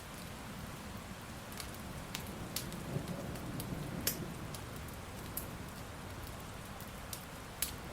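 Steady rain with scattered sharp pops of a crackling fire, and a faint low rumble of distant thunder about three seconds in.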